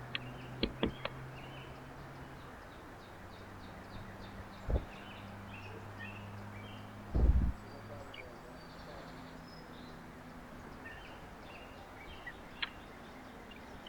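Birds chirping at a backyard feeder, a steady run of short high calls over a low steady hum, with a few sharp knocks and a louder thump about seven seconds in.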